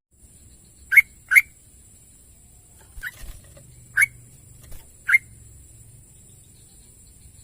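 Sooty-headed bulbul (trucukan) calling in five short, sharp notes: two in quick succession about a second in, then single notes roughly a second apart.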